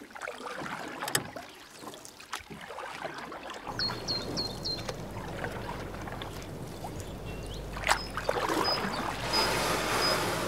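Nature-style ambience of running water and wind, with four quick high chirps about four seconds in, a few sharp clicks, and thin high tones later on.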